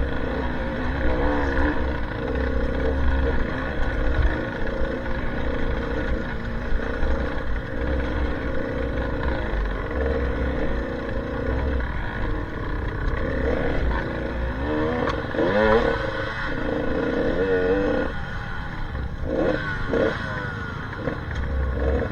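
Off-road trail motorcycle engine running under way, its revs rising and falling several times in the second half, with clattering and a pulsing low rumble.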